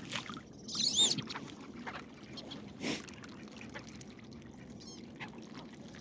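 Wood duck giving a loud, high whistled call that rises and falls about a second in, with fainter calls of the same kind a few seconds later. A short knock sounds near the middle among faint scattered clicks.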